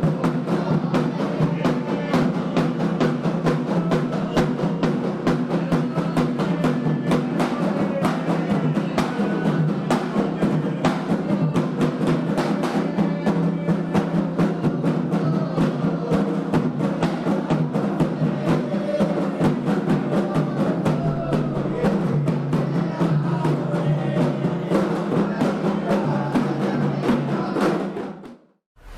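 Candomblé ritual drumming: atabaque hand drums and other percussion playing a fast, dense rhythm, cutting off abruptly near the end.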